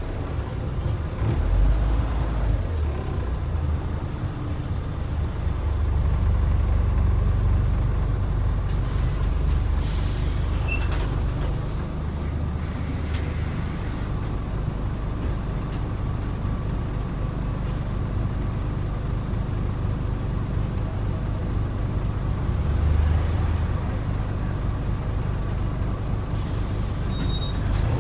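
Scania N94UD double-decker bus's DC9 diesel engine running steadily, with hisses of air from the brakes about ten seconds in, again a few seconds later, and near the end.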